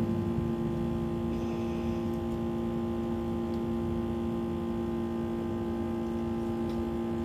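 Steady low motor hum holding one constant pitch, with a faint noisy background.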